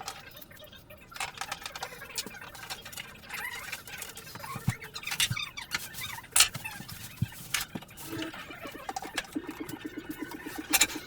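Installation work noises while fitting a dishwasher: a string of irregular clicks and knocks, then from about nine seconds in a rapid, even buzzing rattle.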